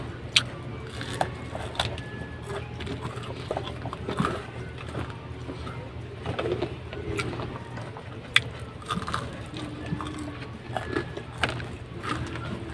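Mouth-close biting and chewing of crispy breaded chicken katsu, with sharp crunches now and then over a steady low hum.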